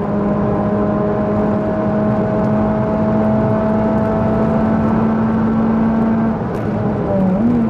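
Renault Clio Sport 197's 2.0-litre four-cylinder engine through its Supersprint race exhaust, heard onboard at high revs, its pitch climbing slowly under load. Near the end the note dips and shifts briefly, as at a gear change.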